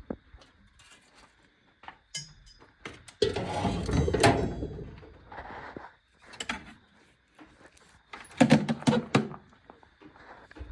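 Workshop handling noise from hand tools and metal parts: scattered knocks and clicks, a longer scraping, rattling stretch about three seconds in, and a cluster of louder knocks near the end.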